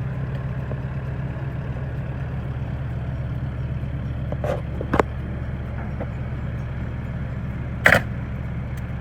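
An engine running steadily at an even pitch, with a few sharp knocks: two around five seconds in and a louder one near the end.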